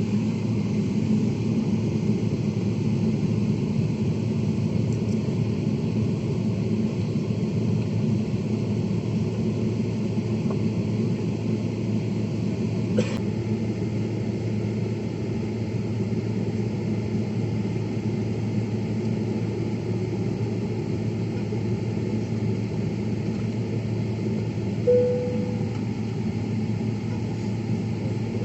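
Steady low hum of an airliner cabin while the jet waits on the ground for takeoff, from the idling engines and cabin air system. A single click about 13 seconds in and a short tone near the end.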